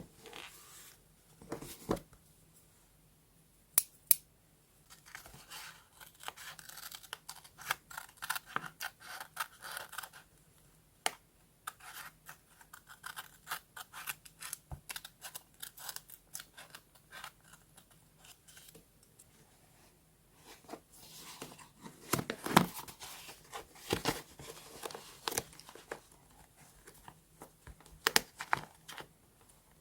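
Scissors cutting paper, with sharp snips and runs of papery scratching and rustling as the paper is handled.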